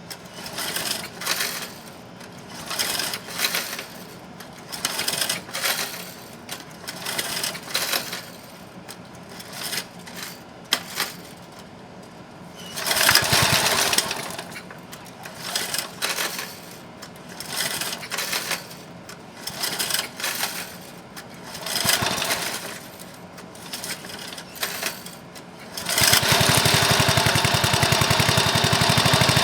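Briggs & Stratton lawn mower engine, freshly rebuilt with new piston, rings and valves, cranked over in a series of short bursts about a second apart, with a longer, louder burst about halfway through. Near the end it catches and runs steadily on its first start after the rebuild.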